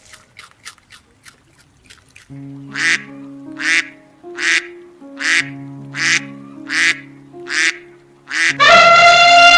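Animal calls over background music: eight short calls at an even pace, about one every three-quarters of a second, then a loud, long pitched call starting near the end.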